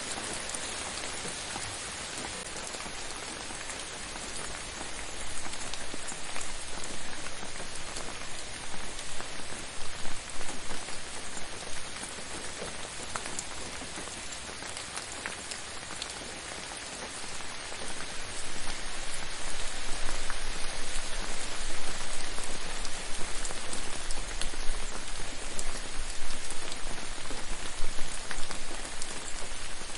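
Steady gentle rain falling on a surface, with individual drops ticking through it; the rain swells a little about five seconds in, eases, and builds again from about eighteen seconds.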